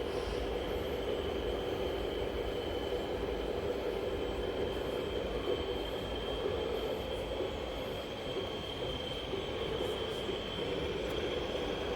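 A steady mechanical whine: a high note held over a lower hum, wavering only slightly.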